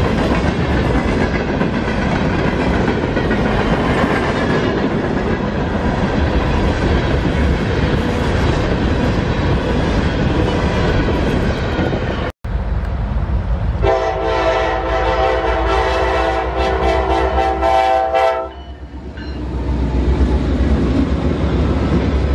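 Norfolk Southern freight train of hopper cars rolling past, a steady rumble of wheels on the rails. After a short break about twelve seconds in, a locomotive horn sounds one long blast of about four and a half seconds over a low rumble, and the rumble of a passing train builds again near the end.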